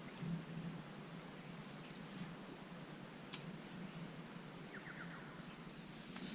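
Faint natural outdoor ambience: a low steady rumble with a few brief, high bird chirps and short trills scattered through it.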